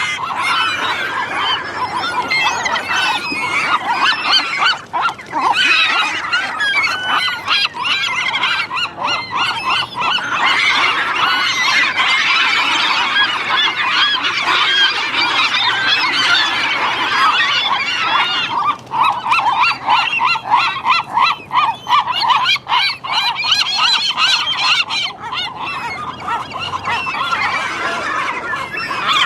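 A large flock of gulls calling, with many loud, overlapping squawks that go on without a break.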